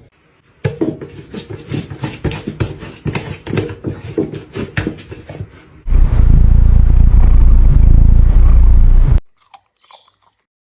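Crunchy chewing: many quick, crackling bites for about five seconds. It is followed by about three seconds of a very loud low rumble that cuts off suddenly, then silence.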